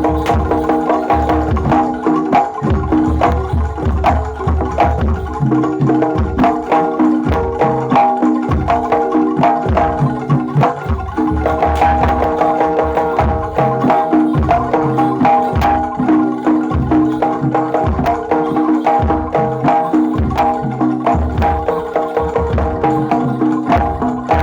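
Live jaranan dor ensemble music: a deep drum beating a steady rhythm under gongs and pitched metal percussion, with sustained melodic tones held over the top.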